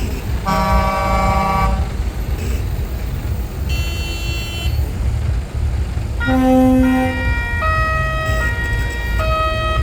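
Show trucks' diesel engines running past with air horns sounding: a chord blast about half a second in, a shorter one around four seconds, then a musical horn playing a tune of stepping notes from about six seconds on.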